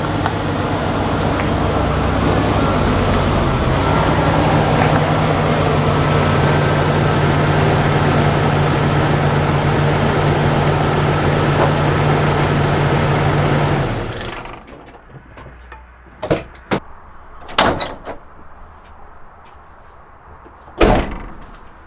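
A 1995 Jeep Cherokee XJ running with a steady engine tone and loud noise, which cuts off about two-thirds of the way through. A handful of sharp clunks follow, like a car door, the loudest near the end.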